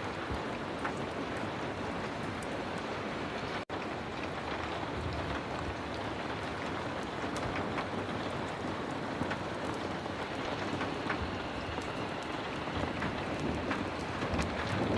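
Heavy rain falling in a steady dense hiss, with scattered sharp ticks through it. The sound drops out for a split second a little under four seconds in.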